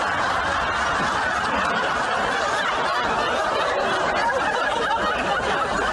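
Studio audience laughing, a steady wash of many people laughing at once.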